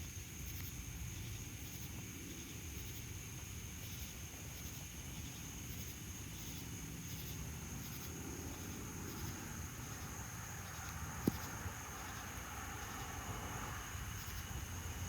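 Dusk insect chorus of cicadas: a steady high drone with evenly repeating pulsed chirps, over a continuous low rumble. A vehicle passes on the road, its tyre noise swelling from about nine seconds in and fading near the end, with one sharp click about eleven seconds in.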